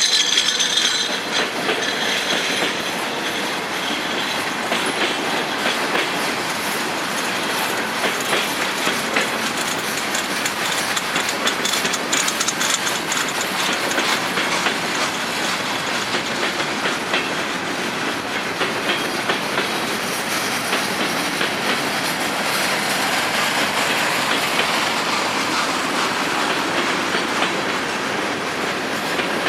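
A freight train's cars rolling past, their wheels clicking steadily over the rail joints.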